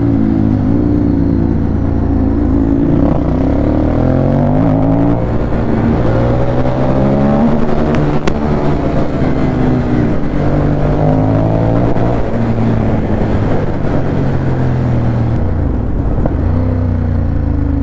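Ducati Monster 821's L-twin engine running under way, its pitch rising and falling again and again as it accelerates and changes gear.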